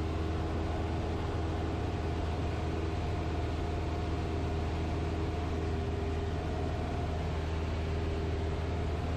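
Cessna's single piston engine and propeller droning steadily in the cockpit, a constant low hum with a hiss of airflow over it.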